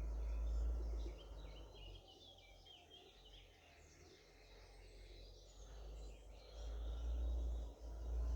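Wild birds singing, short varied chirps and phrases from about a second in, over a low rumble that is loudest at the start and again near the end.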